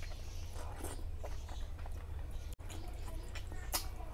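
Close-miked wet chewing and lip smacks of a man eating mutton fat curry and rice with his hands, with short clicks and squishes of the soft fatty meat; a steady low hum runs underneath.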